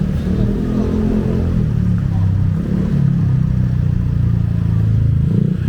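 A motor vehicle's engine running close by in street traffic: a loud, steady low drone.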